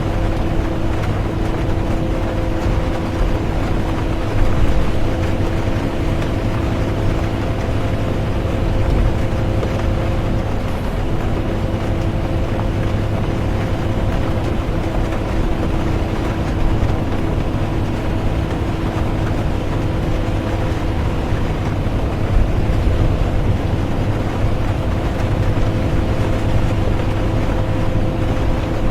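Inside a moving bus: steady engine and road rumble with a constant drivetrain hum, which wavers briefly about ten seconds in. Under it runs an even hiss of rain and tyres on wet road.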